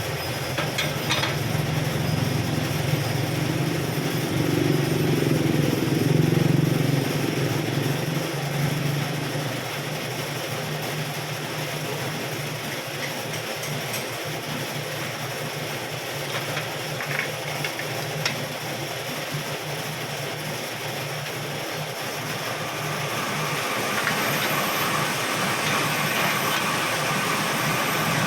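Metal lathe running while the aluminium-alloy wheel hub is machined, a steady motor hum under a hiss of cutting noise, with a few light clicks and a thin whistling tone in the last few seconds.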